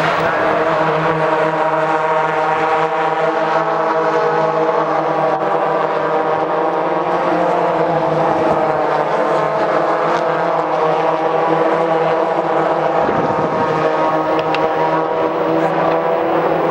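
Race car engines running on track in a steady, continuous drone, with a slight shift in tone about 13 seconds in.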